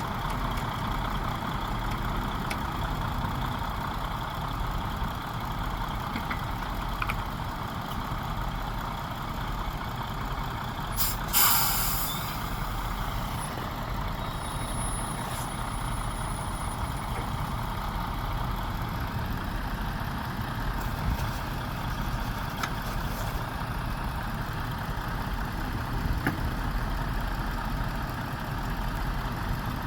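Heavy truck engine running steadily, with one short, loud hiss of air from the air brakes about eleven seconds in.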